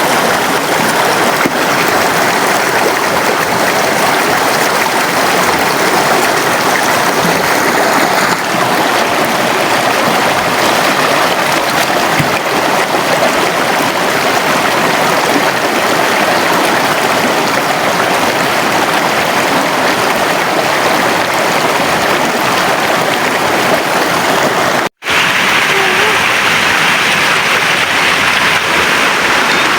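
River water flowing in a steady, loud rush. The sound cuts out for an instant about 25 seconds in, then carries on.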